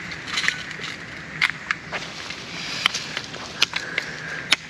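A steady high drone of a cicada chorus, with a few sharp clicks and knocks scattered across it.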